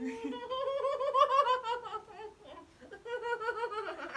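A person laughing in two high-pitched bouts: a long one in the first two seconds, then a shorter one about three seconds in.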